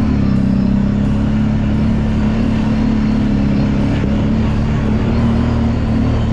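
Kawasaki Brute Force 750 ATV's V-twin engine running at a steady, nearly even pitch under way.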